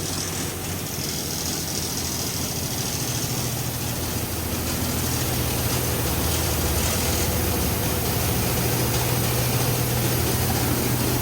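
Oasis Typhoon in-bay automatic car wash running its high-pressure rinse: a steady machine hum from the pump with the hiss of water spray, growing a little louder a few seconds in.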